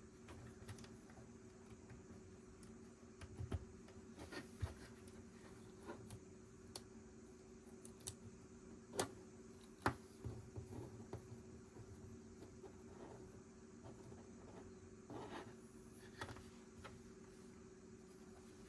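Lego plastic bricks being handled and pressed together: scattered small clicks and taps, with two sharper snaps about nine and ten seconds in, over a faint steady hum.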